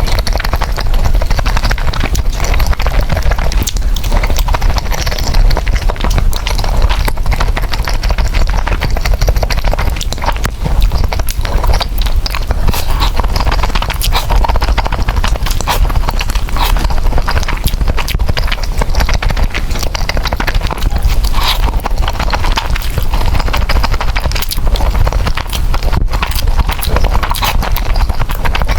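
Close-miked eating of noodles: chewing with a dense, continuous run of wet mouth clicks.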